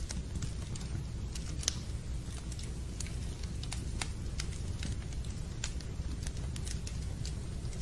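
Fireplace fire crackling: irregular pops and snaps over a low, steady rumble of the flames.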